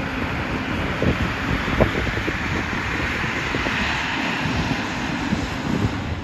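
Aircraft engines running as a plane passes, their noise swelling to a peak about halfway through, with wind buffeting the microphone.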